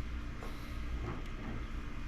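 Steady low machine hum, like a fan or small motor running, with a few faint handling sounds about half a second and a second in.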